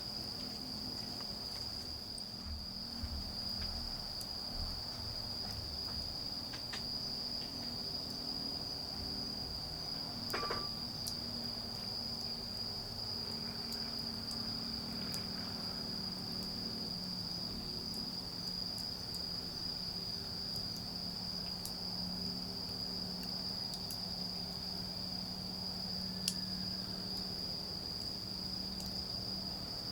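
Autumn crickets trilling in one continuous, steady high-pitched chirr, with a few sharp clicks, likely pops from the dying bonfire, about three seconds, ten seconds and twenty-six seconds in.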